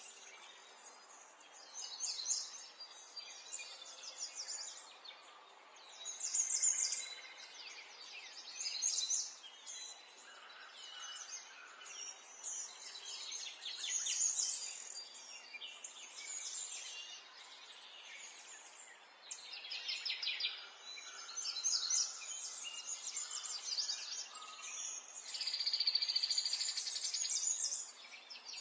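Birds singing and chirping, several overlapping trilled and chirped calls, over faint background hiss.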